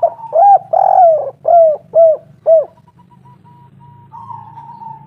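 Spotted dove cooing: a phrase of about six loud, quick coos, each dropping in pitch, in the first half. A fainter, higher drawn-out note comes before the phrase and again near the end, over a low steady hum.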